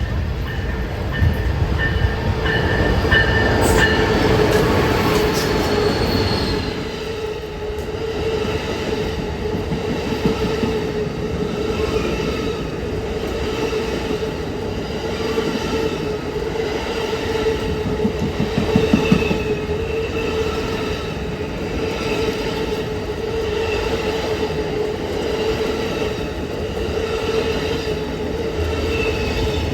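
A train rolling past: a continuous rumble of wheels on rail with a steady, sustained tone held above it.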